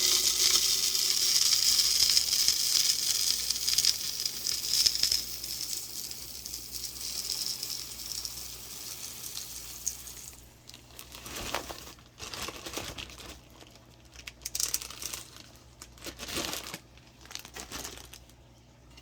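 Bird seed poured from a bag into a seed container: a steady hissing rush of grains for about ten seconds that slowly tapers off, then scattered rustling and light clicks.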